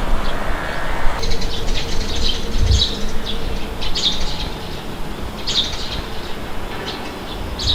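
Small birds chirping in short, repeated calls over a continuous low rumble of wind.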